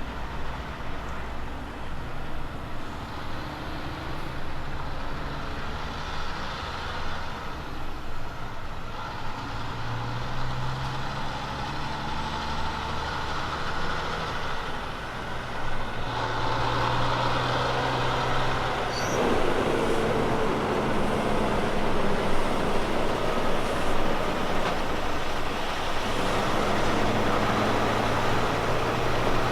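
A Kenworth K200 road train's diesel engine pulling under load with tyre and road noise, growing louder as the truck draws closer. The engine note shifts a couple of times along the way.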